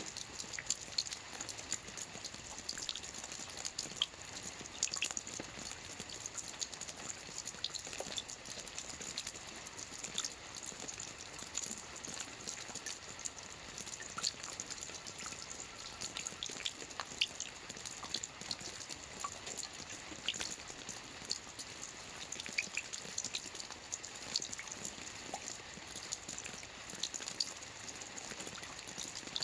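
Soft rain falling on a roof: a steady patter of many small drops with scattered individual drip ticks.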